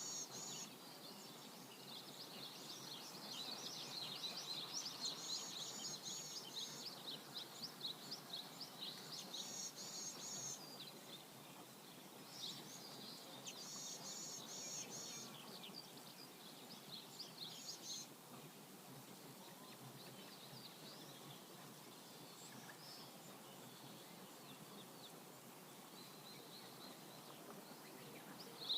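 Small birds chirping and trilling over the steady rush of a flowing river. The birdsong is busy through the first two-thirds, with repeated high trilled phrases, then thins to occasional chirps over the water.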